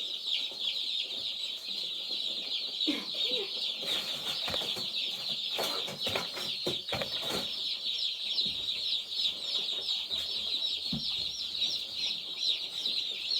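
A brooder full of day-old broiler chicks and turkey poults peeping nonstop, many high, short chirps overlapping into a steady chorus. A few rustling knocks about halfway through.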